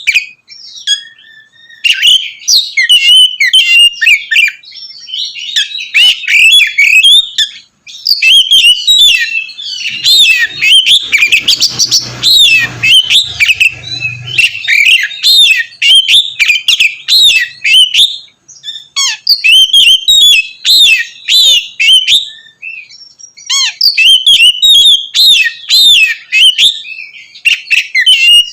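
Oriental magpie-robin (kacer) singing a loud, rapid, varied song of whistles, chirps and trills, broken by a few short pauses.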